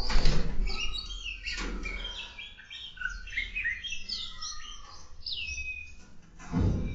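Aviary birds chirping and twittering, a dense mix of many short calls with one clear downward-sliding whistle about five seconds in. Low, noisy thumps break in near the start, once more at under two seconds, and again near the end.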